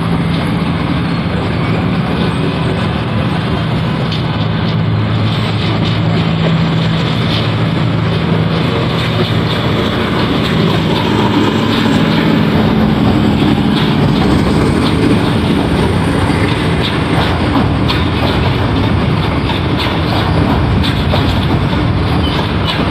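Pakistan Railways diesel-electric locomotive approaching and passing with a steady engine hum, followed by its passenger coaches rolling by, wheels clicking over the rail joints.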